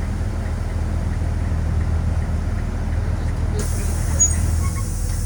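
Freight train of grain cars rolling by with a steady low rumble. About three and a half seconds in, a higher hiss joins it.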